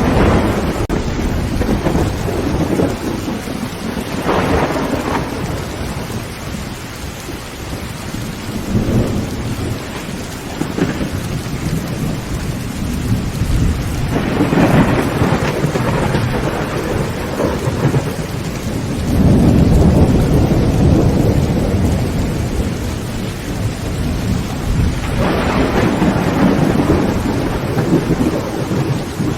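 Heavy rain drumming steadily on a tin roof, with thunder rumbling in through it again and again; the longest and loudest roll comes past the middle.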